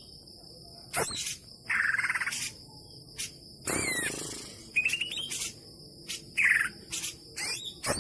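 Cucak ijo (green leafbird) singing a varied mimicking song. It comes in short separate bursts of chatter and whistles, some of them stuttered rising runs and swooping notes, over a steady high buzz.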